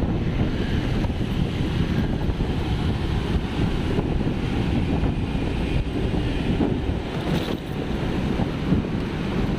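Wind buffeting the microphone: a steady low rumble of noise with no breaks.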